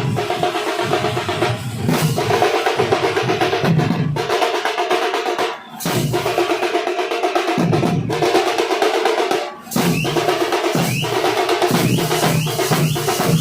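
Nasik dhol ensemble drumming: big dhol drums and snare-like tasha playing fast, continuous rolls and beats. The drumming breaks off briefly twice, near the middle and about two-thirds through, and comes straight back in.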